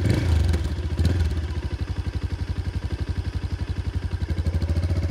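Bajaj Pulsar 220 BS6 single-cylinder engine idling with a steady, even pulse, about ten beats a second, slightly louder toward the end.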